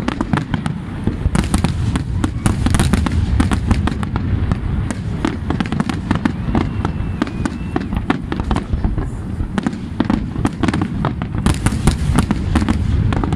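Fireworks display: a rapid, unbroken barrage of aerial shell bursts and crackling bangs over a steady low rumble, heaviest about a second before the end.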